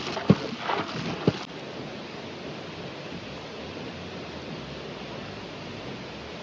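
Steady rushing noise throughout, with a few sharp knocks and short clatters in the first second and a half.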